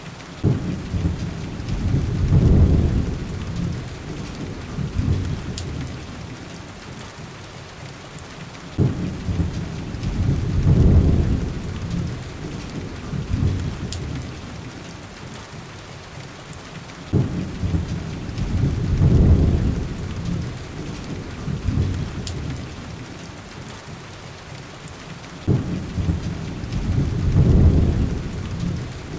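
Heavy, steady rain with a deep rumble of thunder four times, about every eight seconds, each starting suddenly, swelling for a couple of seconds and then fading away.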